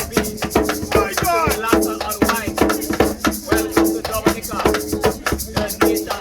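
Live street music: shakers and drums keeping a fast, even beat under a repeating pitched riff, with voices over it.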